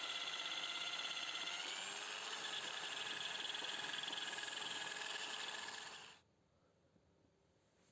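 Small electric power tool running with a steady whine whose pitch sags a little under load and recovers, then cuts off about six seconds in.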